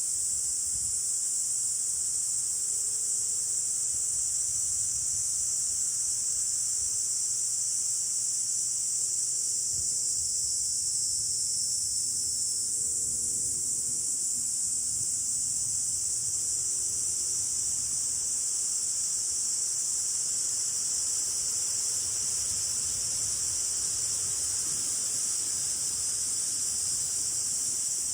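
Steady chorus of insects, crickets or similar, a continuous high-pitched trill with no break. A faint low rumble runs underneath.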